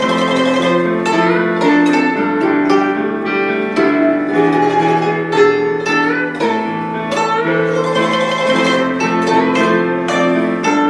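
Guzheng (Chinese plucked zither) playing a melody, its plucked notes following one another and ringing on so that they overlap.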